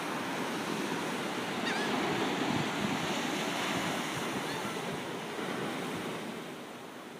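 Ocean waves breaking and washing in, the rush of surf swelling to a peak about two to three seconds in and then easing off.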